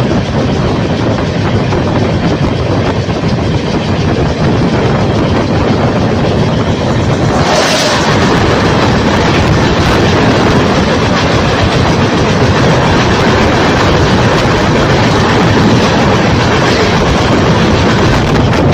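Passenger train running at speed, a loud steady rush with wheels clattering over the rails. About seven and a half seconds in there is a brief louder hiss.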